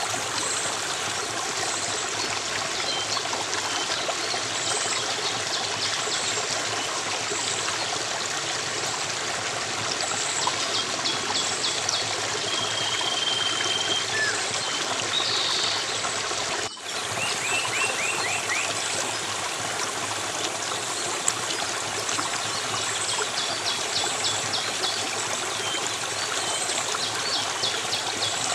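Steadily flowing, trickling stream water, with birds calling now and then over it: short rapid trills and one brief held whistle. The water sound drops out for an instant a little past halfway.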